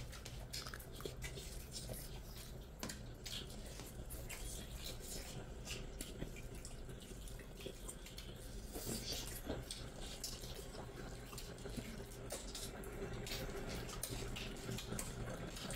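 Wet chewing and mouth sounds of people eating rice and curry with their hands: many short, irregular wet clicks and smacks.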